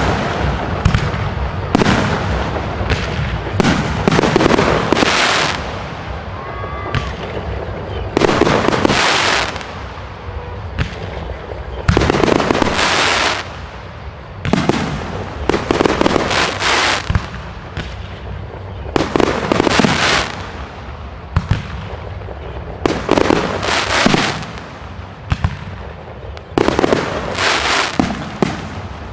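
Aerial fireworks display: a continual string of sharp bangs from shells bursting overhead, several of them followed by about a second of crackling.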